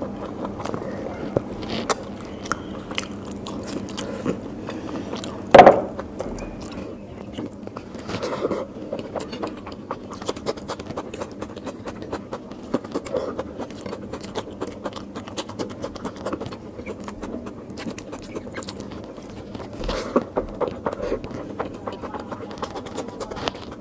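Close-miked eating by hand: wet chewing and mouth clicks, with fingers scraping rice on a plate. One much louder sudden sound comes about five and a half seconds in.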